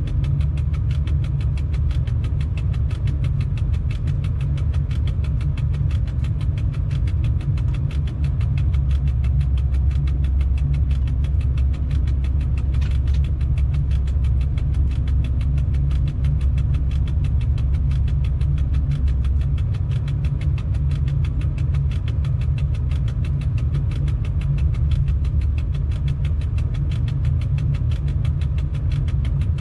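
Electric freight locomotive under way, heard in its cab: a steady low rumble of the running train. The rumble deepens for a stretch in the middle.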